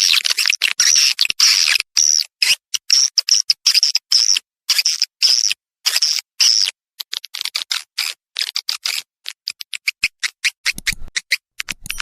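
Edible-nest swiftlets twittering: a rapid run of short, high chirps broken by brief silent gaps. Longer chirps fill the first half, and about seven seconds in they give way to quicker, shorter clicking chirps.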